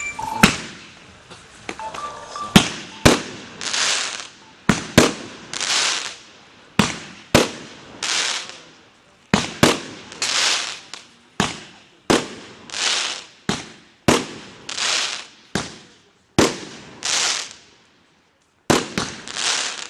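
Medium firework battery (cake) firing its shots one after another, about one a second. Each shot is a sharp bang followed by a rushing noise that swells and fades. After a pause of about two seconds near the end, a quick cluster of shots follows.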